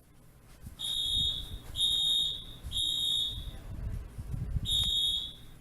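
Smoke-alarm-style electronic beeping played from a sound file by a motion-triggered alarm system: four long, high beeps of just under a second each, with a longer gap before the fourth. Low rumbling noise runs underneath.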